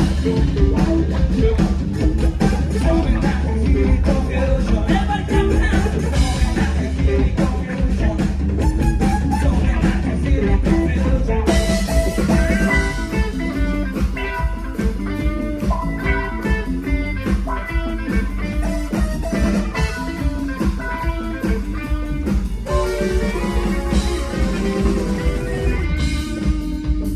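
Live band playing a funk-rock song on drum kit, bass and electric guitar, with a steady driving beat throughout.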